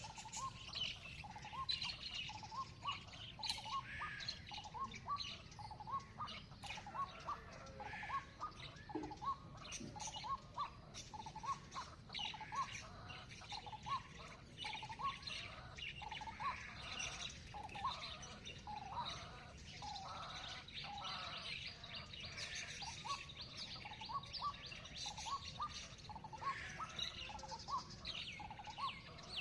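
Morning chorus of several songbirds: one bird repeats a short low note over and over while others chirp and twitter higher up, over a steady faint low rumble.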